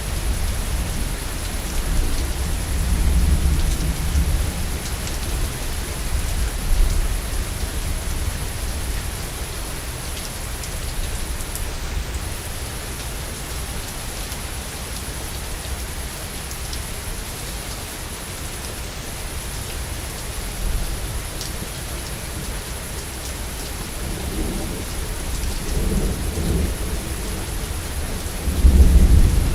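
Steady rain falling, with low thunder rumbling in the distance; the thunder swells early on and rolls louder again near the end.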